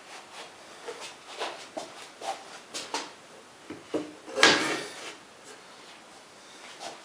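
Scattered knocks, clicks and clatter of parts being handled and set down, with one louder knock about four and a half seconds in.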